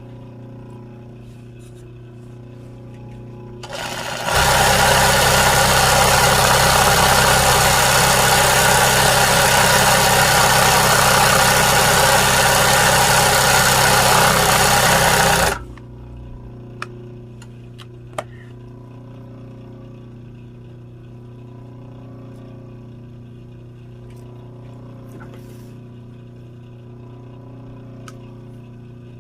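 Sewing machine running steadily at speed for about twelve seconds: it starts about four seconds in and cuts off suddenly. Before and after, only a low steady hum with a couple of small clicks.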